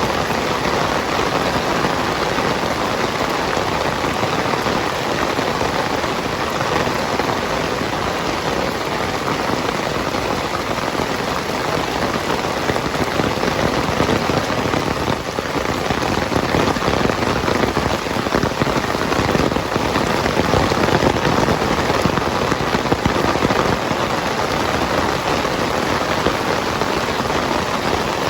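Heavy rain falling steadily, a dense even patter of drops on surfaces that swells slightly a little past the middle.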